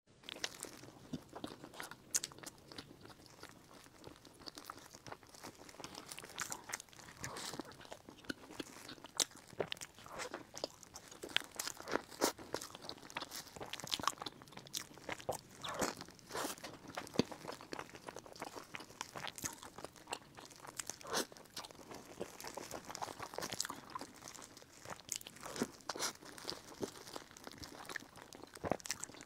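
Close-miked biting and chewing of a soft bread roll filled with purple rice, with many sharp, irregular crunchy crackles.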